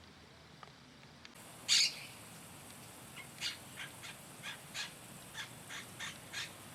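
A bird calling: one loud call about two seconds in, then a run of about ten short, evenly spaced notes, roughly three a second.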